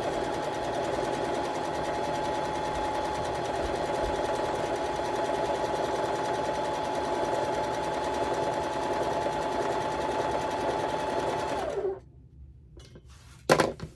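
Electric sewing machine stitching a seam at a steady high speed, then winding down and stopping about twelve seconds in. A single sharp click follows near the end.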